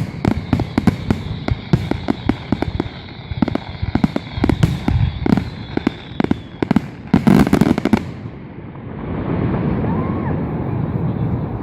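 Fireworks display: salvos of shells bang and crackle in quick succession, building to a dense final cluster about eight seconds in. Then the bangs stop and a steady rushing noise takes over.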